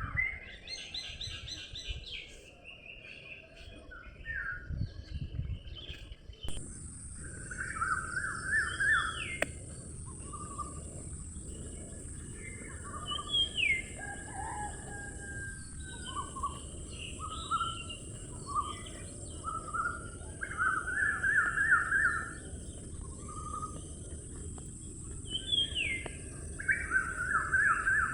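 Several birds chirping and singing in short repeated trills and calls, with a steady high-pitched hiss that starts about six seconds in.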